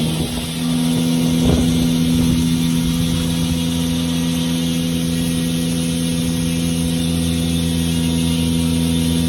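Honda K24 2.4-litre four-cylinder in a Civic EG race car running at a steady, held engine speed on a chassis dyno, with a brief dip just after the start.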